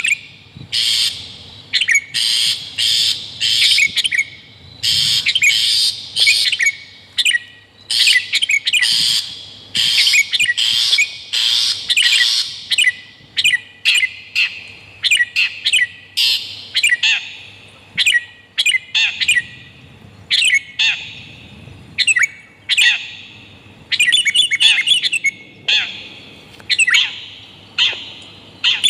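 Bird lure recording of long-tailed shrike calls mixed with sooty-headed bulbul song: quick runs of short, harsh calls and chirps, broken by brief pauses.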